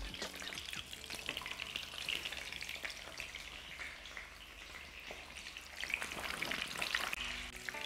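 Chicken pieces shallow-frying skin side down in hot oil, a steady sizzle full of small crackles and spitting pops that grows a little louder near the end.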